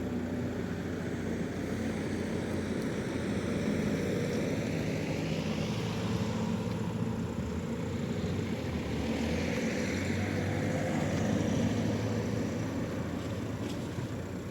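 Chrysler Sebring 2.0 CRD's Volkswagen four-cylinder TDI diesel engine running steadily at idle, with a rushing noise that swells and fades twice.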